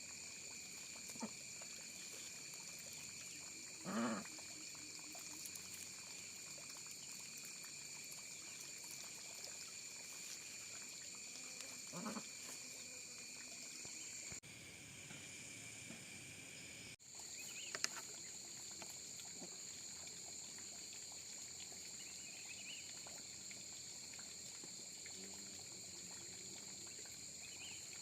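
A few short animal calls, about 4 and 12 seconds in, over a faint, steady high-pitched drone.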